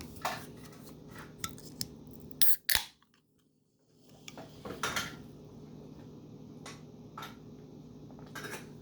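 Clicks and clinks of a can of sparkling cider being handled and opened, with two sharp cracks about two and a half seconds in, then a second of silence.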